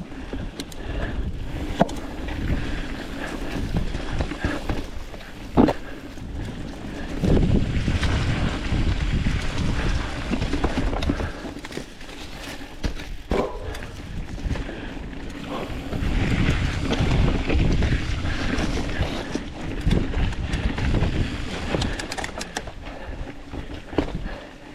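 Specialized Status 160 mountain bike riding a rough dirt trail: wind rushing over the microphone and tyres rumbling on dirt, with sharp knocks and rattles as the bike hits bumps, the loudest about two and five and a half seconds in.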